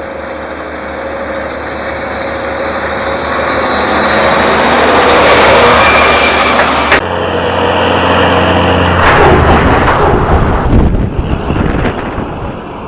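Diesel engines of Caterpillar heavy earthmoving equipment running, growing louder over the first several seconds. The sound changes abruptly about seven seconds in to a different engine note.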